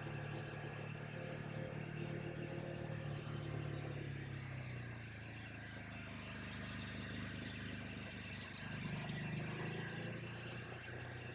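Ducati Hypermotard's V-twin engine running at low, steady revs while riding. Its note drops a few seconds in and picks up again later.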